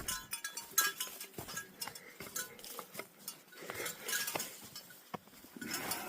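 Light metallic clinking and jingling, small pieces of metal striking each other at an irregular pace of roughly one or two clicks a second.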